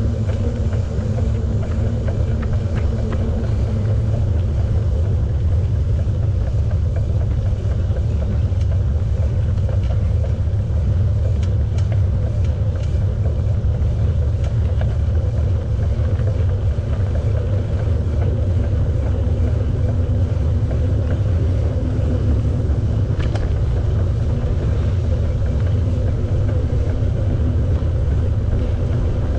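Steady low rumble of wind buffeting the microphone and bicycle tyres rolling on a paved path while riding, with a faint even hum above it.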